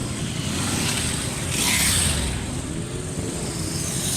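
Motor vehicle engines running steadily, with a louder rush of noise about one and a half seconds in.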